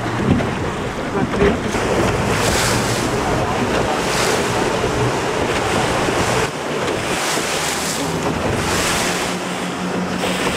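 A boat motor running, with wind buffeting the microphone and water washing around the hull. About six and a half seconds in the engine note changes: its deep hum drops away and a slightly higher steady tone takes over.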